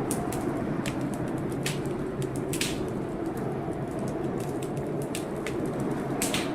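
Wood fire in a fireplace crackling, with irregular sharp snaps and a couple of louder pops, over a steady low rumble of storm.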